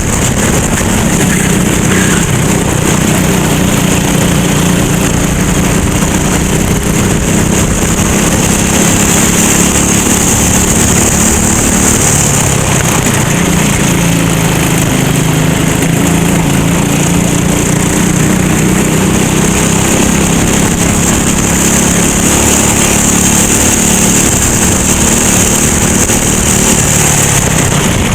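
Go-kart engine running hard, heard from on board the kart, its pitch falling and rising again as the throttle comes off and back on.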